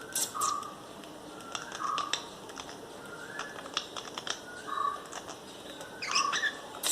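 Pet lovebird calling in its cage: a short call repeated about five times, each a brief high chirp followed by a lower, harsh note.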